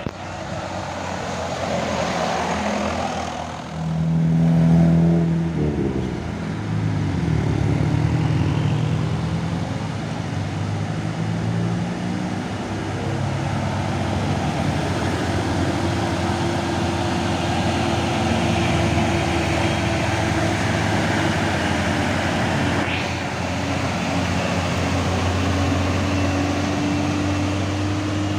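Heavy diesel trucks climbing a steep hill, engines running under load. One passes loudest about four to six seconds in, its pitch dropping as it goes by, and then another engine holds a steady, slowly rising note.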